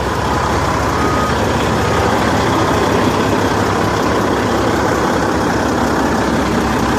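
Kenworth semi-truck's 550-horsepower Caterpillar diesel engine idling steadily.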